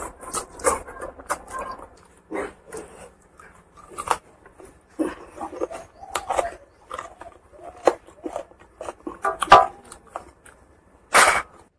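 Eating sounds of a man chewing and smacking his lips on mouthfuls of pork curry and rice eaten by hand, in irregular smacks with a loud one near the end.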